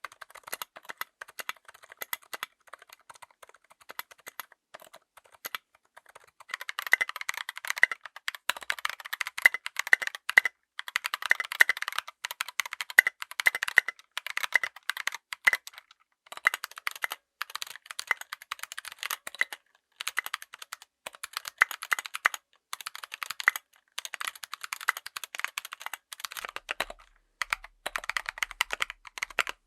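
Fast typing on a full mechanical keyboard fitted with tactile switches, a dense run of key clacks with short pauses. The typing is quieter for the first several seconds, then louder and fuller from about six and a half seconds in.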